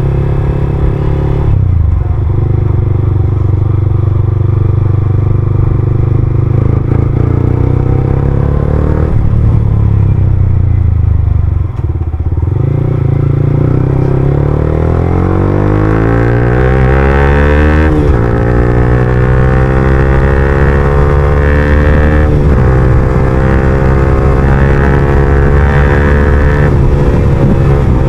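Yamaha R15M's single-cylinder engine through an Akrapovic full-system exhaust, under way at low revs. About halfway through the revs climb steadily for a few seconds, then drop sharply as it changes gear, and it carries on running with a couple of brief dips in revs.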